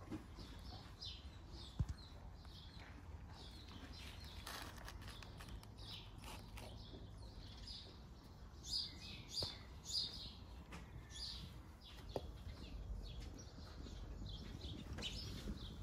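Small birds chirping faintly and repeatedly, over a low steady hum, with one or two light clicks.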